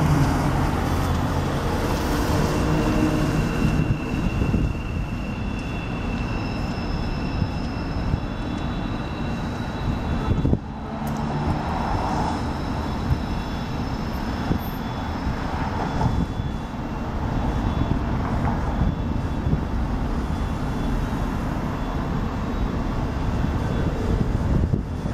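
Trains rolling by with a steady rumble, and a faint, thin, high squeal of steel wheels in the first several seconds. The sound breaks off briefly about ten seconds in, then the rumble carries on.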